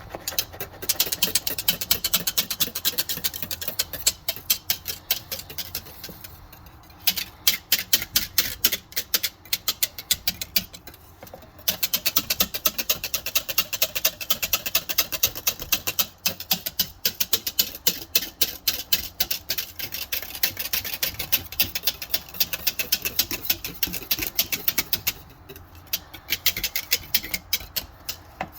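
Metal whisk stirring milk and yogurt starter in an Instant Pot's stainless steel inner pot, clinking against the pot in rapid ticks, several a second, with a few short pauses.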